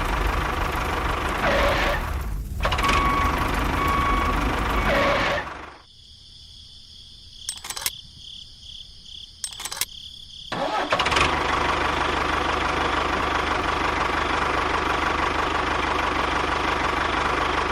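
A small engine running. About six seconds in it drops away to near quiet with a few clicks, then runs steadily again from about ten and a half seconds.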